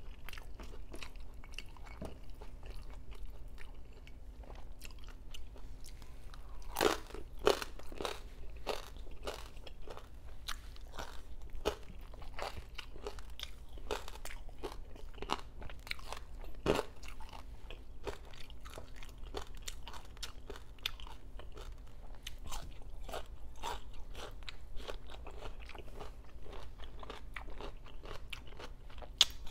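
A person chewing and biting crunchy food: a dense run of wet crunches and chewing clicks, with a few louder bites about seven and seventeen seconds in.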